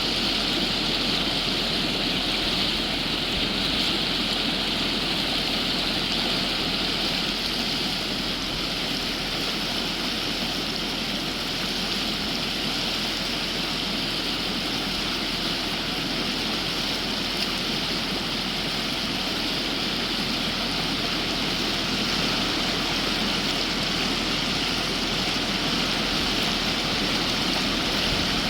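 Steady rushing of flowing river water, an even hiss with no breaks or changes.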